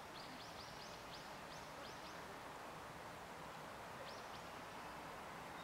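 A songbird calling faintly: a run of short, high notes, each sliding downward, slowing over the first two seconds, with two more about four seconds in. Under it lies a steady outdoor hiss.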